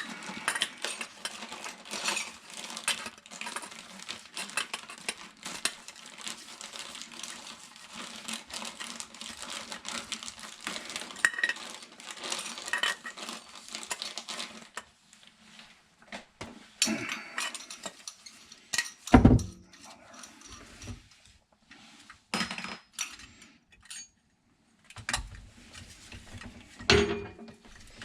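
Metal parts and hand tools clinking and rattling as plumbing is worked on under a kitchen sink, dense for the first half, then scattered knocks with one loud thump.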